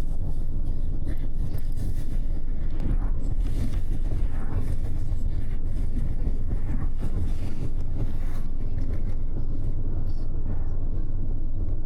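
Double-decker express bus cruising: a steady low engine and road drone heard inside the cabin from the upper deck, with a few faint ticks and rattles.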